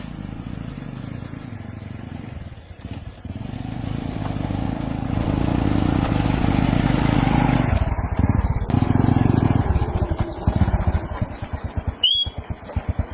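A small engine running steadily, growing louder midway, then running with an uneven pulsing beat for the last few seconds.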